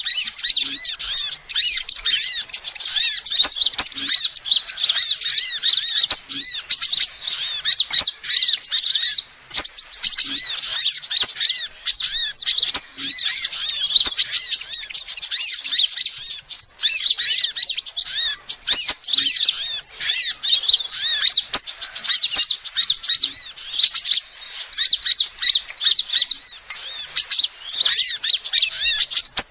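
Female sunbird calling: rapid, high-pitched chirps and trills run almost without a break, pausing briefly about nine and seventeen seconds in.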